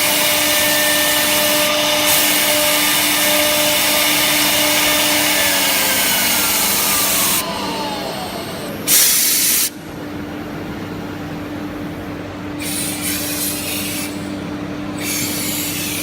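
CNC router with a 6 kW HSD spindle running loudly with a steady whine. The spindle's whine falls in pitch as it spins down from about six seconds in. A short loud hiss of compressed air comes about nine seconds in, with two more hisses near the end, over a steady hum.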